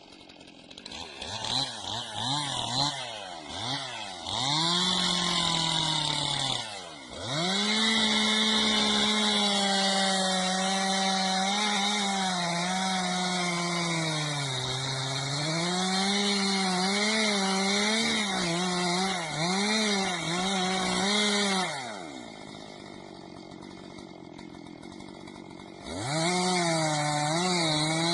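Two-stroke chainsaw blipped in short revs, then held at full throttle for about fifteen seconds, its pitch sagging and recovering as it loads up in the wood. It drops back to a low idle, then revs up again near the end.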